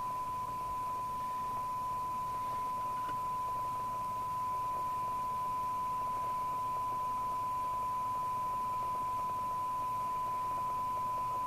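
Steady 1 kHz test tone carried on the CB transmitter's signal and heard from the test monitor. It holds unbroken while the microphone lead is held at the point where its snapped white wire still makes contact, a sign that transmit is working through that spot.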